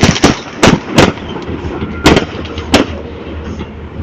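A large bonfire burning, its wood popping with loud, sharp cracks like gunshots: about six irregular cracks in the first three seconds, then fewer, over a low steady rumble of the fire.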